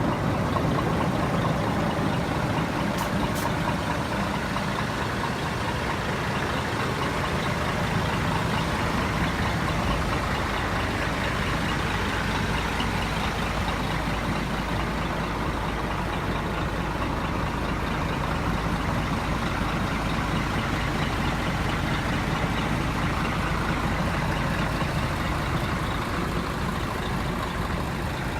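Scania R420 truck's diesel engine idling steadily, its low rumble growing fuller about ten seconds in.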